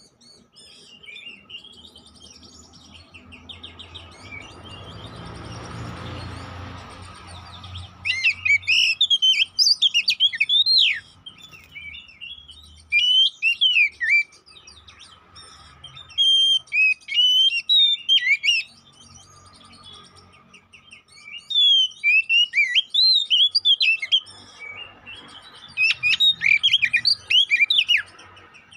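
Oriental magpie-robin (kacer) singing in about five loud bursts of rapid, varied whistled phrases with short pauses between them, the first about eight seconds in. Before that, a low rushing noise swells and fades.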